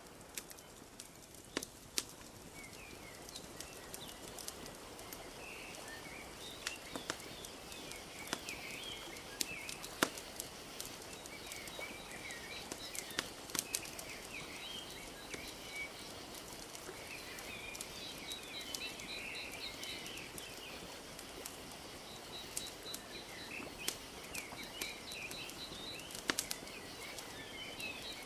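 Wood fire crackling with scattered sharp pops over a steady wash of lake water lapping. Small birds chirp and twitter throughout, with a fast repeated high note coming and going.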